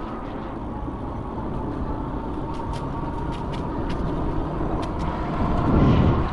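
Electric bike riding over a bumpy trail: a steady rumble of tyres and wind on the microphone with a faint steady whine and scattered small ticks and rattles, swelling louder shortly before the end.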